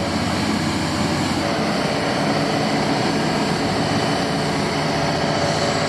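Engine of heavy construction machinery, most likely an excavator, running steadily at a constant pitch.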